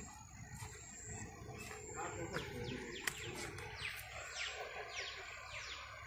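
A bird calling, a run of sharp descending notes about twice a second starting about two seconds in, over a steady high-pitched tone.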